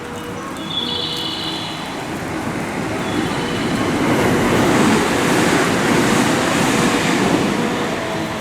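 Electric train running along the station track beside the platform: wheel and motor noise swells from about three seconds in and stays loud through the second half. A short high electronic chime sounds once near the start.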